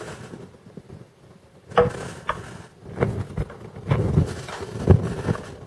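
Short dull taps and knocks, about seven or eight after a quiet first second and a half, as the piston of a Hyundai G6BA 2.7 V6 is pushed through the spark plug hole to test for connecting-rod bearing play. No ringing knock is heard: this cylinder's rod bearings sound fine.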